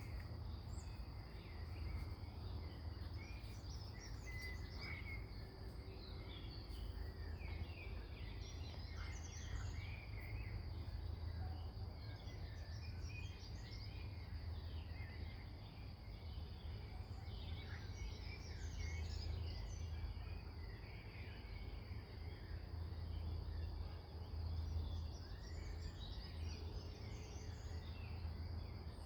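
Rural outdoor ambience: many small birds chirping and calling on and off, over a steady high insect drone and a low, even rumble.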